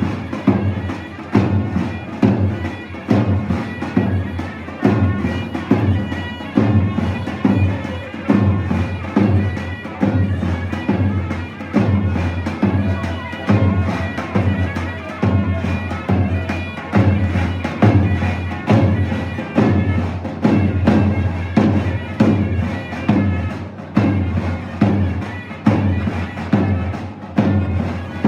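Turkish folk dance music on zurna and davul: a shrill reed-pipe melody held over a steady, heavy drum beat.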